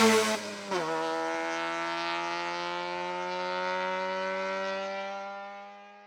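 Rally car engine at full throttle: its pitch drops sharply with an upshift about a second in, then climbs slowly as it pulls through the next gear. It fades out near the end.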